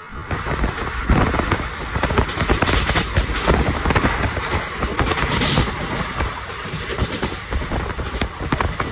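Passenger train running at speed, heard from aboard at an open window: steady rushing noise with dense, irregular clattering and knocking of wheels over the rails.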